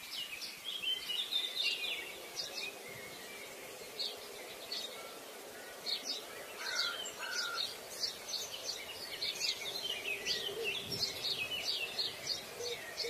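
Small birds chirping, many short high calls coming thick and fast, with a few lower calls about halfway through, over a faint steady hiss.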